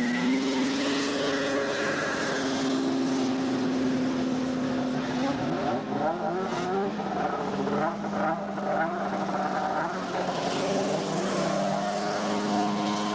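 Two-stroke racing snowmobile engines at full throttle on a grass drag run. The engine note is steady and high, drops slightly about five seconds in, then holds.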